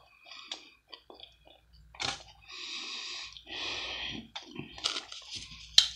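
Close-miked chewing of a taco: a string of soft wet mouth clicks, with two hissing stretches of about a second each in the middle.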